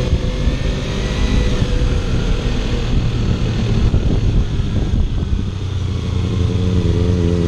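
Kawasaki Ninja 300 motorcycle engine running while riding, its note rougher in the middle and settling into a steady, even note near the end.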